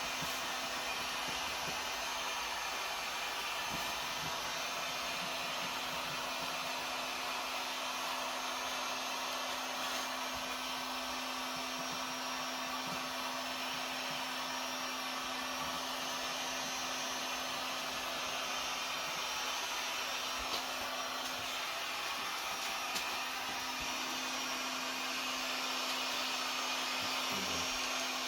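Heat gun running steadily: a constant blowing rush of air over a steady low motor hum.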